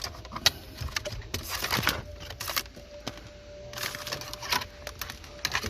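Hands working a cable behind car interior plastic trim: irregular clicks, taps and rustling as the wire is pulled through and the panels are handled.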